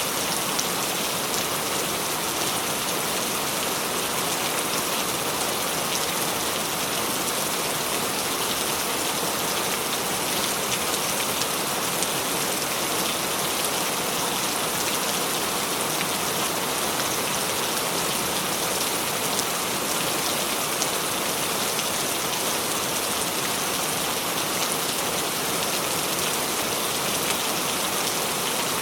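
Steady rain falling, an even dense hiss with many fine drop ticks and no change in loudness.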